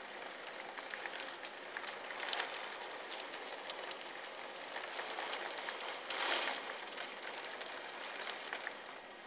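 Heavy rain pouring down steadily, with many individual drops ticking and splashing close by and a brief surge about six seconds in.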